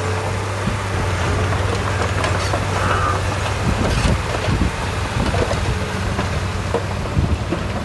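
Diesel engine of heavy earthmoving equipment running steadily, with irregular short knocks and clanks through the middle and later part.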